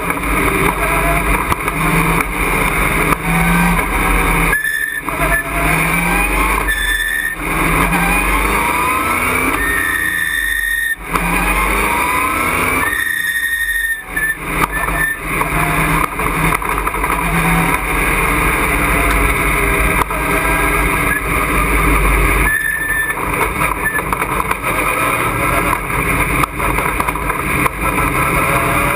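A racing truck's engine heard from inside the cockpit under hard acceleration. The sound drops out briefly several times, and after each drop the revs climb again.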